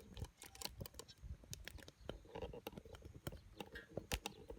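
Wood fire crackling in a homemade secondary-combustion fire pit, with irregular sharp pops and ticks, several a second.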